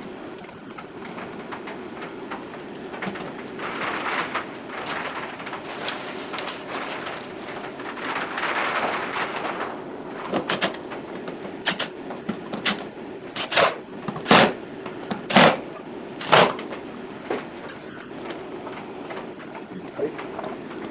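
Sharp clicks and knocks from hand work on parts, coming about once a second in the middle stretch, over a steady low hum.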